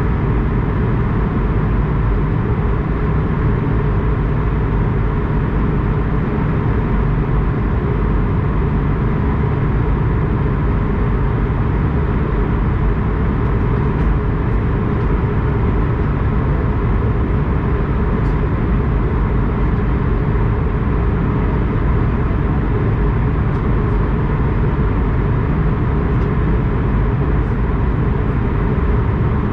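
Steady, unbroken engine and air noise of an Airbus A220-100 with its Pratt & Whitney PW1500G geared turbofans, heaviest in the low end.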